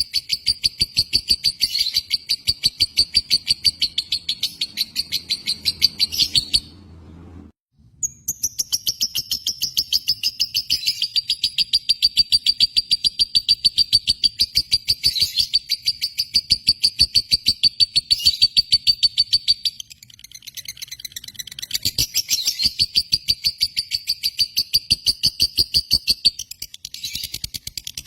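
Lovebird giving long runs of fast, evenly repeated high chirps, a continuous chattering trill of the kind Indonesian keepers call ngekek. It breaks off about seven seconds in, restarts a second later with a falling first note, and runs on with a short lull later and looser chirps near the end.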